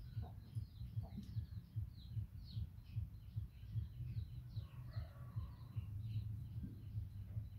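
Small birds chirping in the background, short high chirps repeating over and over, with irregular low thumps underneath.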